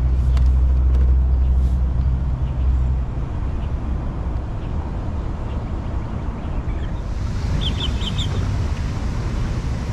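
Low rumble of road traffic, with a vehicle passing during the first few seconds, then a rougher, steadier hum. A few short, high bird chirps come near the end.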